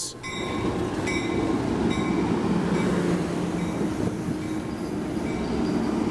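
Amtrak Pacific Surfliner passenger train rolling to a stop, its bell clanging about once a second over the steady rumble and hum of the train.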